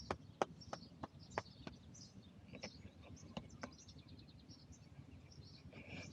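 Small birds chirping and calling, with a quick run of short high notes about four seconds in, among scattered sharp taps that come irregularly through the first few seconds.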